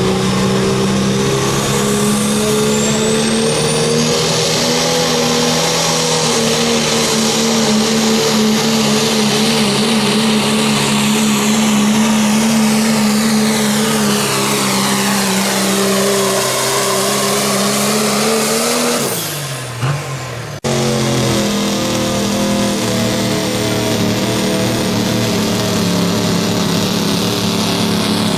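Diesel pickup truck engine held at high revs under full load while pulling a sled, with a whine that sweeps down in pitch. About two-thirds in, the engine winds down and drops off. Then, after an abrupt jump, a truck engine is again at full power.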